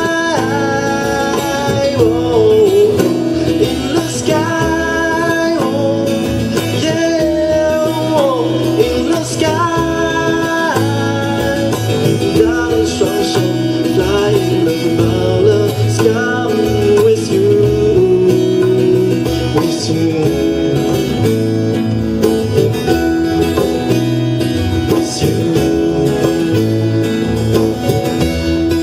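Live band music: guitar and a melodic lead line over steady accompaniment.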